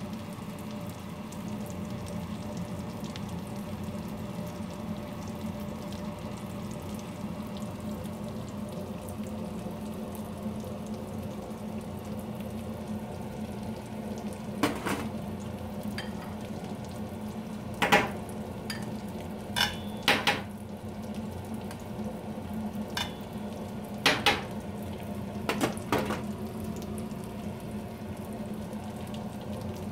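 Eggplant omelettes sizzling in oil in a frying pan, a steady frying hiss over a low hum. From about halfway to near the end come several sharp clinks of metal utensils against the pans and bowls.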